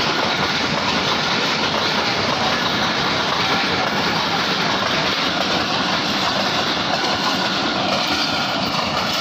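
A train passing close by on the track, a steady loud rumble and rattle with no break.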